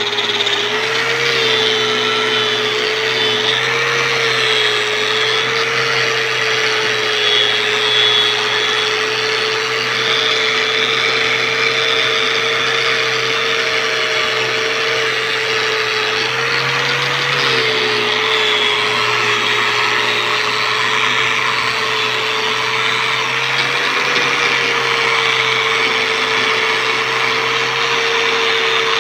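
Angle grinder fitted with a wire brush, running steadily and scrubbing carbon crust and rust off a motorcycle exhaust header neck: a steady motor whine over a harsh scraping hiss, the whine dipping slightly a few times.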